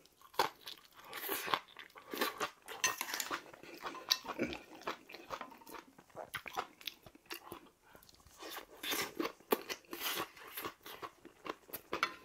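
Close-up eating sounds: a man chewing and crunching mouthfuls of bibimbap mixed with raw kohlrabi salad and spicy ramen, in irregular wet, crackly chews.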